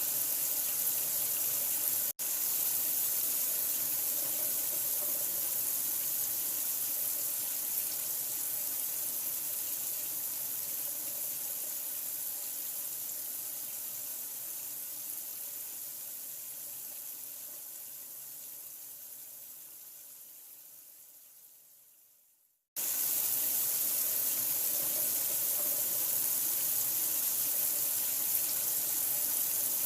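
Running water as a steady, hissing rush. It drops out for an instant about two seconds in. Over the second half it slowly fades away to silence, then starts again abruptly at full level a moment later.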